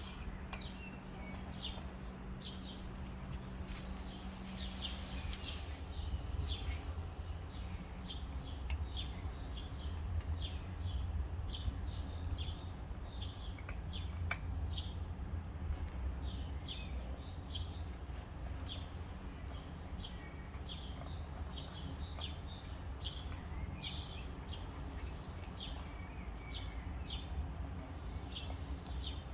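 Small birds chirping throughout in short, sharp, repeated calls, over a steady low rumble.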